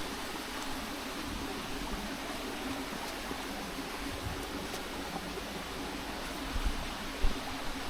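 Steady rushing noise with a few low bumps near the end.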